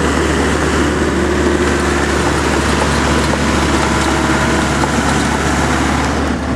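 Amphibious excavator's engine running steadily, a loud, even low hum with mechanical noise over it.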